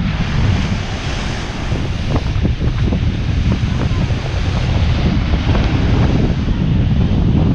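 Sea breeze buffeting the microphone with a heavy low rumble, over the steady wash of waves.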